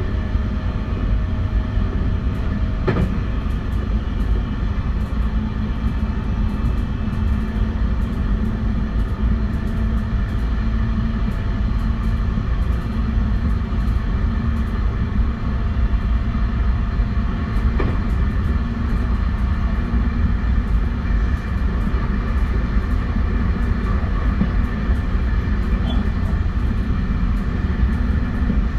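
JR West 271 series electric multiple unit with a Hitachi SiC VVVF inverter, running at a steady speed: a heavy rumble of wheels on rail under steady whining tones. A sharp knock comes about three seconds in and another about eighteen seconds in.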